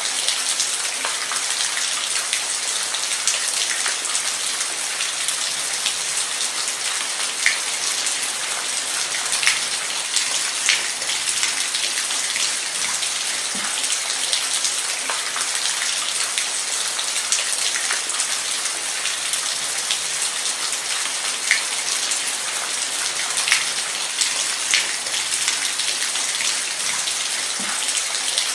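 Steady rain falling, a constant high hiss with scattered sharper drops striking a surface now and then.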